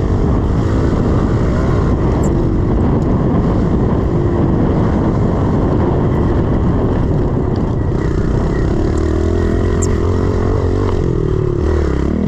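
A 110cc four-stroke pit bike engine running under riding load, its pitch rising and falling as the throttle is worked.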